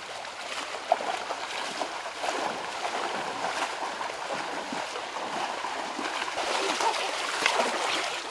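Water running and splashing in a stream: a steady rushing with small scattered splashes.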